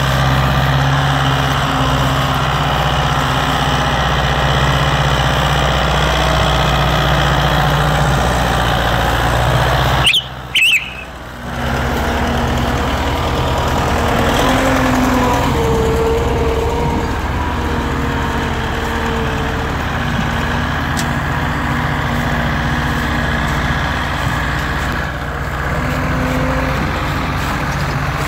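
Tractor engine running steadily at a constant speed, with a short break in the sound about ten seconds in.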